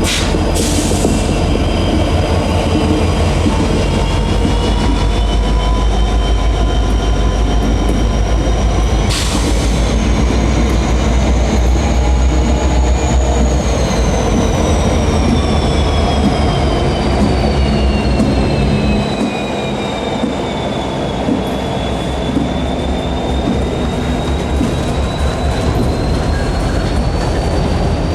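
Norfolk Southern freight cars rolling past in a steady rumble, with rapid rhythmic wheel clicking and high-pitched wheel squeal that slowly rises and falls in pitch. Two sharp bangs ring out, about half a second in and about nine seconds in.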